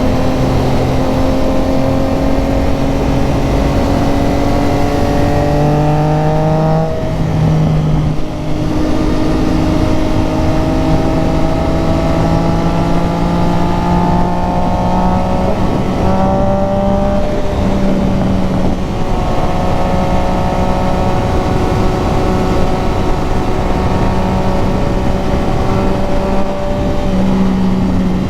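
Motorcycle engine under way, its note climbing slowly and dropping back about 7 and 17 seconds in, over a steady rushing noise.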